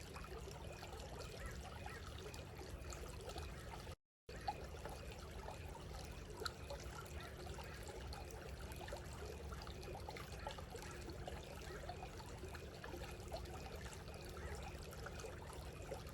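Creek water trickling steadily, with faint scattered ticks; the sound drops out completely for a moment about four seconds in.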